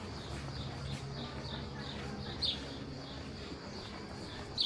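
A small bird chirping repeatedly in short, sharp, falling chirps, two of them louder than the rest, over a low steady background hum.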